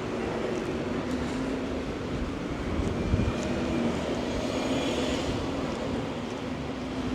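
Town-centre street ambience on a wet night: a steady noise bed with a constant low hum, and a low rumble that swells about three seconds in, like a passing vehicle.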